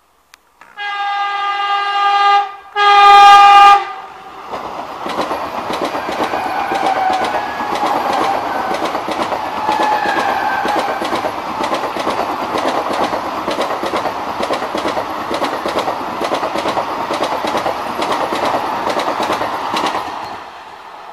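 Train 18 electric trainset sounding two horn blasts, the second shorter and louder, then rushing past at speed for about sixteen seconds with a fast clatter of wheels over rail joints, dropping away near the end.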